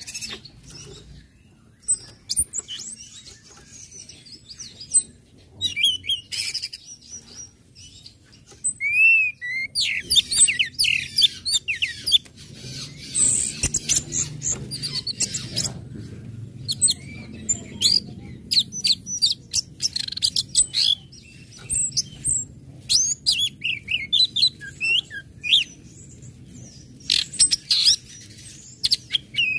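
Orange-headed thrush singing: scattered high chirps at first, then from about a third of the way in, rapid runs of chirping and twittering notes with short pauses. This is the busy 'ngecit/ngeplong' song that keepers play to excite other birds into singing.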